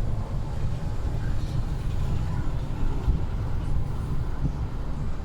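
Heavy truck running down the road: a steady low engine and road rumble.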